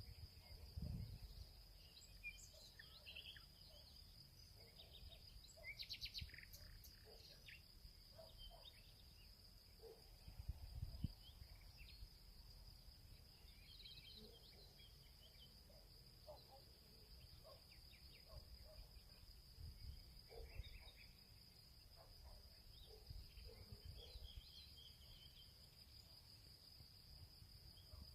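Faint field ambience: a steady high insect drone, like crickets, with scattered bird chirps and calls throughout. Two brief low rumbles come about a second in and around eleven seconds.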